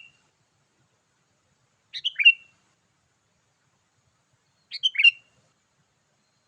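Sooty-headed bulbul (kutilang) calling: a short bright chirping phrase, about half a second long, heard twice, about three seconds apart. It is a repeated lure call used to attract wild bulbuls.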